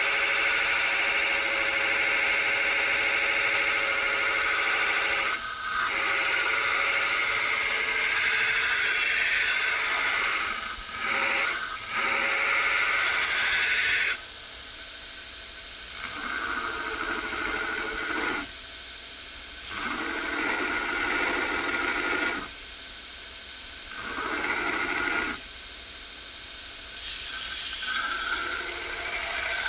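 Steel knife blade being ground against a running grinder. There is one long continuous grinding stretch with brief lifts, then shorter passes of two to three seconds each, with the machine running more quietly between them.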